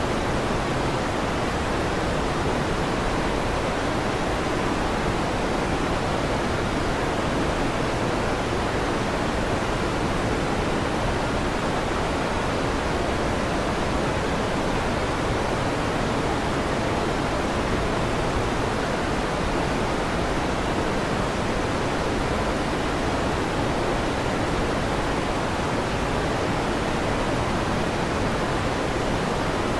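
Electric fan running steadily: an even, unbroken rushing hiss.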